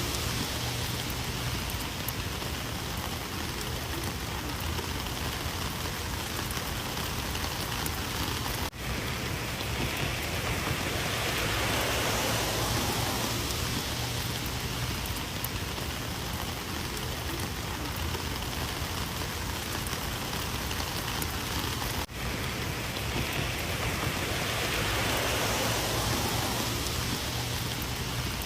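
Heavy rain falling steadily, a dense even hiss that slowly swells and eases, with two momentary dips about nine and twenty-two seconds in.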